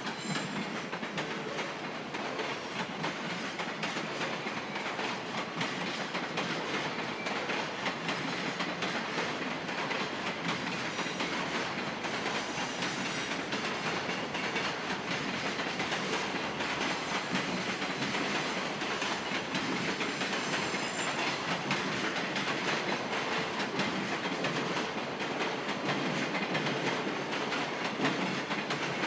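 Freight train of container wagons behind an EF510 electric locomotive rolling past, wheels clattering steadily over the rail joints.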